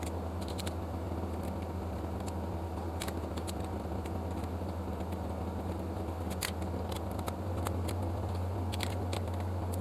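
A steady low hum with faint scattered small clicks; the hum grows a little louder about three-quarters of the way through.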